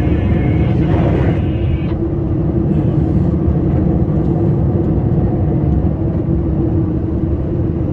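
Scania R560 plow truck's V8 diesel running steadily while plowing: a constant low rumble with a steady hum on top.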